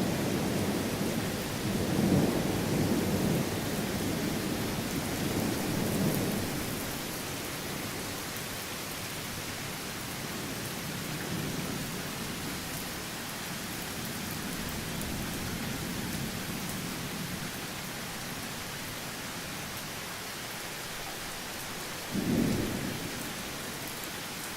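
Thunderstorm: steady rain hiss with thunder rumbling in rolling swells through the first six seconds or so, then easing off. A short, sharper burst of thunder comes near the end.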